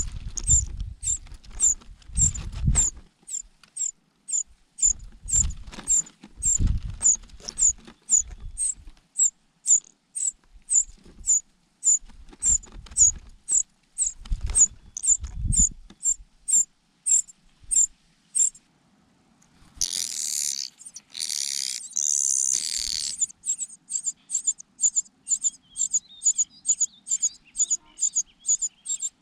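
Cuckoo chick begging for food: a long run of thin, high cheeps about two a second. They stop for about a second past the middle, then come three louder, noisier bursts of begging and faster cheeping. Dull low thumps sound under the first half.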